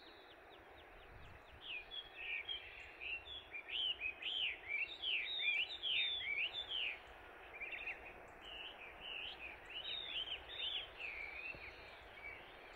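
A songbird singing in two phrases, each a fast run of arching chirps: the first about 1.5 s in and loudest, the second weaker, starting about 7.5 s in. A steady outdoor hiss runs underneath.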